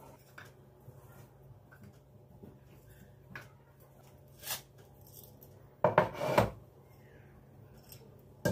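Kitchenware being handled on a counter: a few light knocks, then a louder clatter of dishes about six seconds in.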